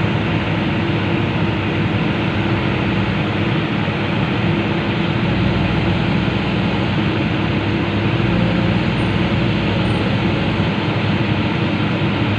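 Komatsu PC200 excavator's diesel engine running steadily, with an even low hum.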